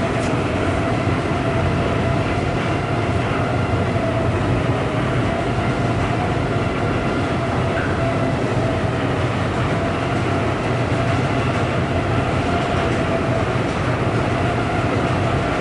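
Steady mechanical drone with a low hum and a held, slightly wavering mid-pitched tone, unchanging throughout.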